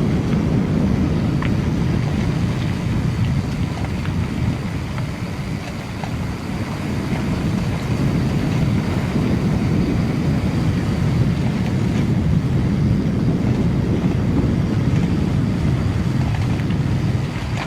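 Wind rushing over an action camera's microphone as a mountain bike rolls along, a steady low rumble with a few faint clicks.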